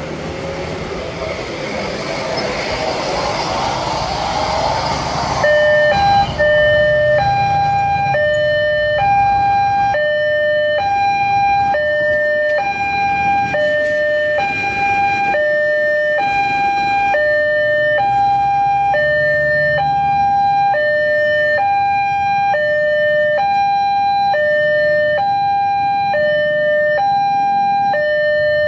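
Railway level-crossing warning alarm sounding a two-tone electronic hi-lo wail that alternates between a lower and a higher tone about once a second. This is the replacement for the crossing's original Siemens American-style alarm. It starts about five seconds in, as a loud rushing noise ends.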